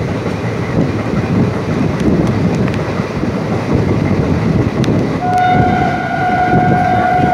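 Superfast express train running at speed, heard from an open coach window: a dense rumble of wheels on rails with a few sharp rail-joint clicks. About five seconds in, the locomotive's horn starts one long, steady blast.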